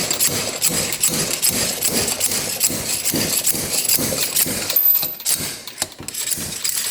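Slide hammer being worked hard, its sliding weight clanking against the stop again and again, about two to three blows a second, to pull a stuck rocker-arm pin out of a motorcycle-type cylinder head. The blows stop suddenly at the end as the pin comes free.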